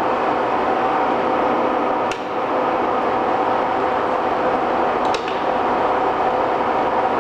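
Century B-40 engine lathe running under power: a steady gear-train hum and whine with a couple of held tones, likely with the power feed engaged. Two brief clicks come about two and five seconds in.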